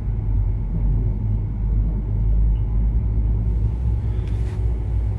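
A steady low rumble with a faint hum, and a soft rustle near the end.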